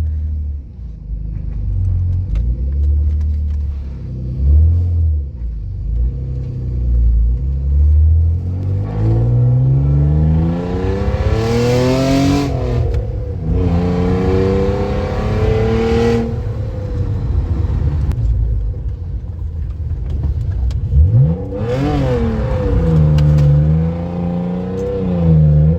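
BMW E46 328i inline-six engine idling and pulling off, then revving up and dropping back several times as the car is driven hard. At the two highest points, a rush of noise joins the engine. The diff has just been welded for drifting.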